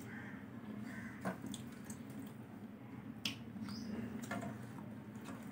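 Close-up eating sounds: a man chewing chicken and rasam rice eaten by hand, with a few sharp wet clicks and smacks, the loudest about three seconds in, over a low steady hum.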